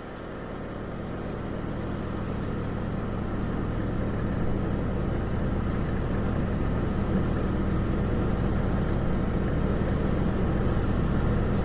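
A steady low hum over an even hiss, fading in over the first few seconds and then holding steady.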